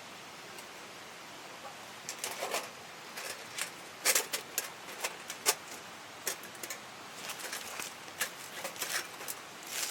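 Steady rush of a small mountain stream, with irregular sharp snaps and clicks starting about two seconds in.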